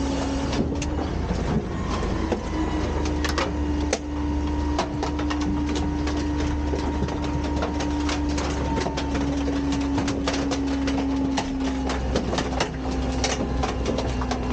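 Garbage truck working at a transfer station: a steady mechanical whine over a low engine rumble, with many scattered clicks and knocks of refuse and metal.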